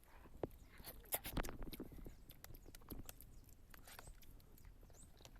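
A person eating fruit: a string of irregular short clicks and crunches from biting and chewing, busiest about a second in.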